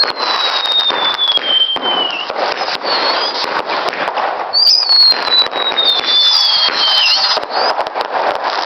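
Fireworks going off in a dense run of crackles and pops. Over them come two whistles that fall slowly in pitch, one at the start and another about five seconds in.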